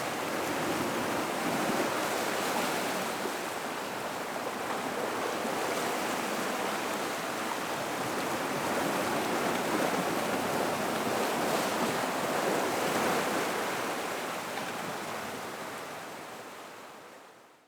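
Gentle ocean waves washing in and out of a rock pool: a steady wash of seawater that swells and eases, fading out over the last couple of seconds.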